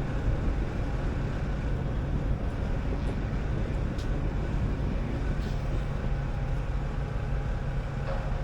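A semi truck's diesel engine runs with a steady low drone, mixed with road noise, with a faint click about four seconds in.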